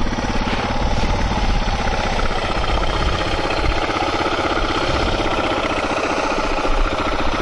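Motorcycle engine idling steadily, left running while the bike stands still.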